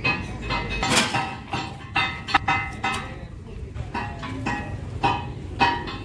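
Hammer blows on steel, roughly one a second and coming closer together near the end, each leaving a short metallic ring.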